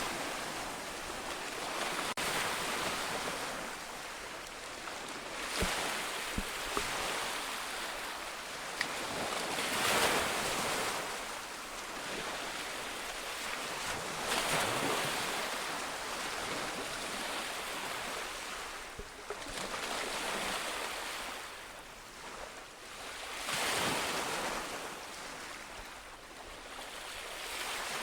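Sea waves breaking on a shore and washing back, a new surge every four to six seconds.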